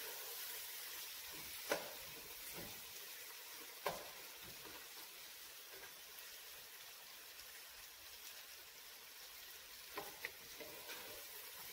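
Sliced onions and green chillies frying with a faint, steady sizzle in a stainless steel pot while a wooden spoon stirs them. There are a few sharp knocks as the spoon hits the pot, two of them close together near the end.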